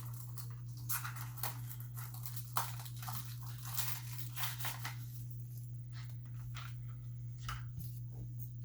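Crinkling and rustling as playpin/bassinet parts and their packaging are handled, dense for the first few seconds and then sparser. A steady low hum runs underneath.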